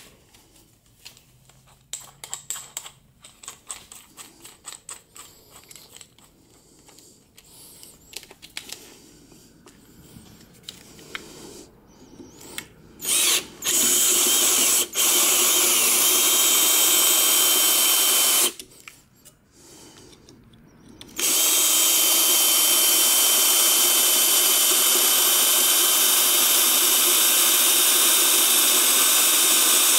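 Electric drill boring out a sheared bolt in an exhaust manifold with a larger bit, enlarging the pilot hole. After a dozen seconds of faint clicks from handling the tool, the drill runs steadily, stops for a couple of seconds just past the middle, then runs steadily again.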